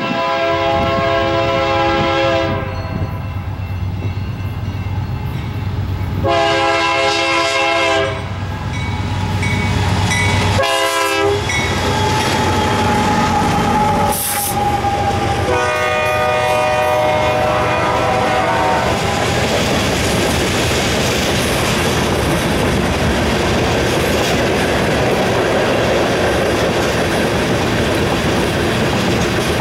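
Freight locomotive's air horn sounding the grade-crossing signal (two long blasts, a short one, then a long one) over the rumble of the train. From about two-thirds of the way in, the steady rolling noise and wheel clatter of covered hopper cars going by take over.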